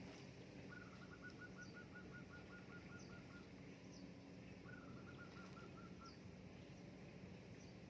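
Faint bird calls: a rapid trill of evenly repeated notes lasting about two and a half seconds, then a shorter trill a little later, with a few faint high chirps scattered through.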